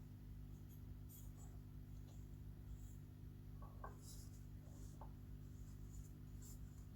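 Faint handling noises, a few light scrapes and clicks about halfway through, as ceiling fan parts are moved about, over a steady low hum.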